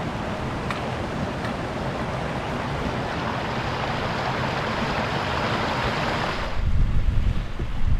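Strong wind on open moorland: a steady rushing noise. About six and a half seconds in it gives way suddenly to louder, low buffeting of wind on the microphone.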